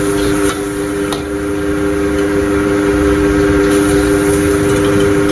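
A steady machine hum of several constant tones over a low rumble, with a couple of sharp clicks in the first second or so.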